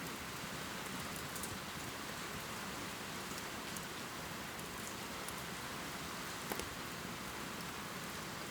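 Steady heavy rain pouring, with scattered sharp drip ticks; one drop lands a little louder about six and a half seconds in.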